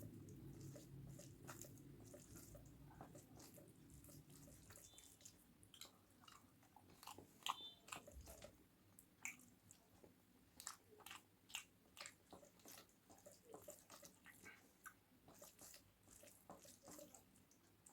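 Faint, close-up sounds of a person eating: chewing with wet mouth clicks and smacks, and some crunching, in irregular quick strokes. A low hum fades out over the first few seconds.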